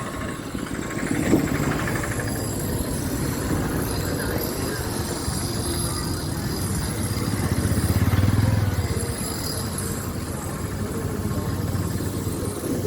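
Road traffic: engines running steadily with faint voices in the background, and a motor vehicle swelling louder as it passes close about eight seconds in.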